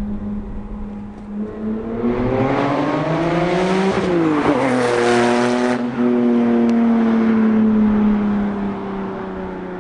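Porsche 997 Turbo's twin-turbo flat-six accelerating hard, rising in pitch through a quick shift about four seconds in, then easing off with the pitch slowly falling.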